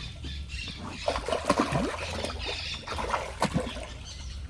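Water splashing and trickling in irregular bursts as piranhas thrash at the surface, feeding on bread.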